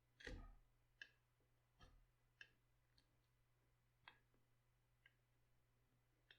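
Faint, light clicks and taps at uneven intervals, about eight in all, the first a little louder and longer than the rest.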